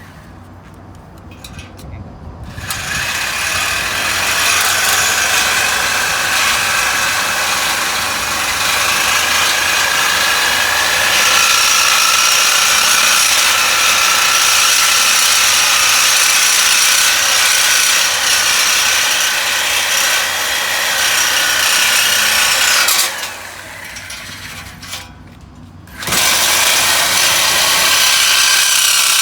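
Power tool cutting through the car's steel exhaust pipe to remove the old exhaust tip, giving a loud, steady high-pitched whine. It runs for about twenty seconds, stops briefly, then starts again near the end.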